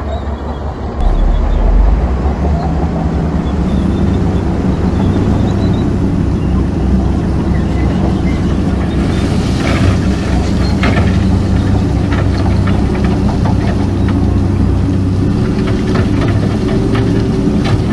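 Heavy diesel engine of earthmoving machinery running steadily under load, loud throughout, with a spell of sharp clanks about halfway through and the engine note rising slightly near the end.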